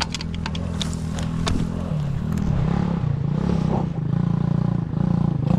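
Small pit bike engine running: steady at first with a few rattling clicks, then from about two seconds in its pitch rises and falls repeatedly in short revs.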